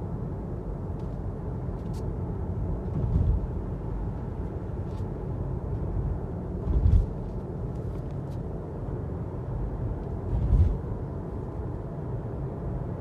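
Low road rumble inside a moving Tesla Model 3's cabin, swelling briefly three times, with scattered faint clicks and ticks. The clicks are the center-console rattle, which may be related to the air vent.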